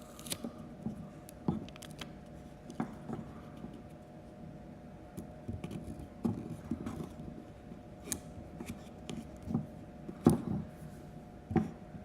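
Small wooden kit parts being handled and fitted together: scattered, irregular light clicks and taps over a faint steady hum.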